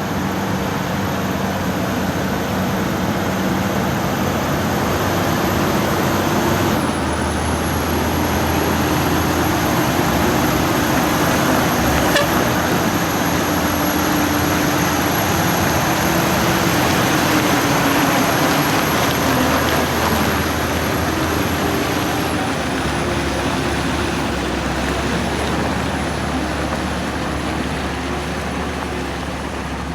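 Heavy truck engine running continuously, its pitch rising and falling slightly, with a steady thin high whine above it.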